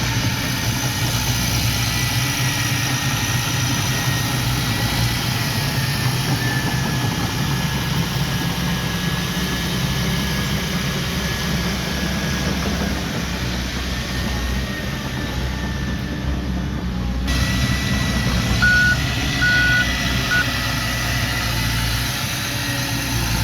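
Heavy diesel earthmoving equipment running steadily, with a thin whine over the engine. Near the end come three short backup-alarm beeps, the last one shortest.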